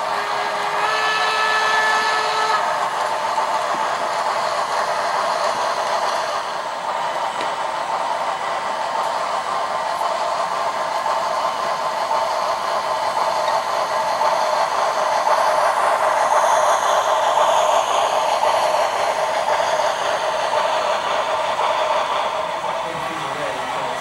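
Sound-decoder steam whistle of an HO scale Shay locomotive model, through the model's small speaker, blown once for about two seconds near the start as a steady chord of several tones, followed by a steady rushing noise as the model runs.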